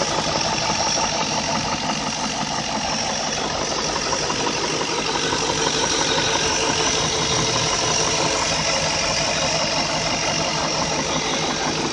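BMW M62 V8 engine idling steadily with a rapid, continuous knocking rattle that the owner puts down to the VANOS variable valve timing unit rather than true engine knock.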